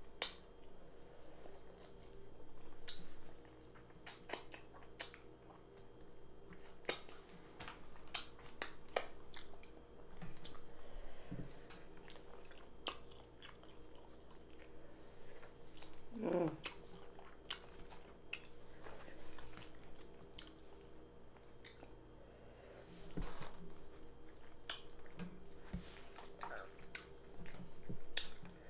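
Close-miked wet chewing and lip-smacking of a person eating fufu with egusi stew and tilapia, with irregular mouth clicks throughout.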